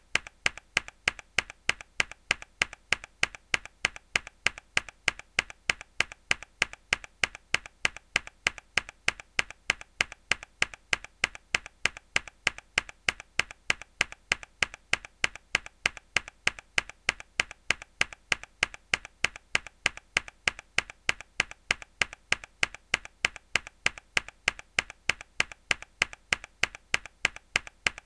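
A mechanical keyboard key pressed hard again and again in a fast, even rhythm, each press a sharp click.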